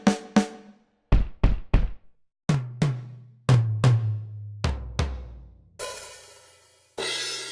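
Sampled acoustic drum kit from Roland DrumStudio Acoustic One played one drum at a time. First two snare hits, then three kick drum thumps. Then pairs of tom hits that step lower in pitch from high tom to floor tom, and a cymbal struck twice, left ringing.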